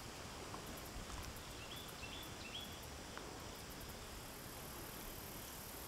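Faint, steady outdoor background with a small bird giving three quick, short chirps about two seconds in.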